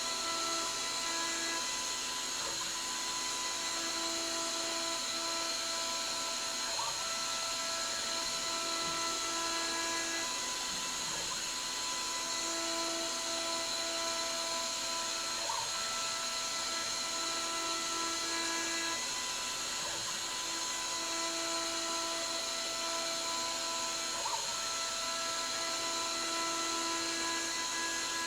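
Spindle of a granite-framed CNC mill whining steadily while it machines aluminium, with lower motor tones that come and go every few seconds as the axes move.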